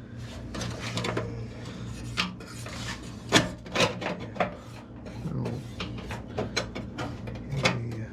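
Hand work on sheet-metal patch pieces: scraping and rubbing of metal with scattered sharp clicks and knocks, over a steady low hum.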